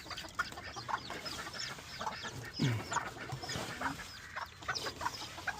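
A flock of Old English Game chickens clucking, with many short calls overlapping.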